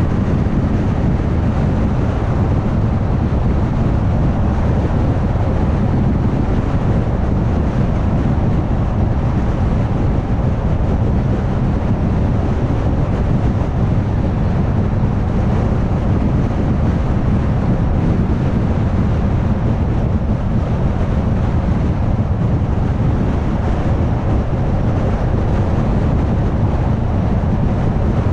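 Car driving steadily at highway speed: a constant low rumble of tyres on the road and engine, with some wind noise.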